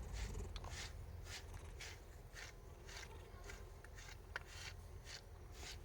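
Brush strokes through a cat's fur: a soft, even swishing about twice a second.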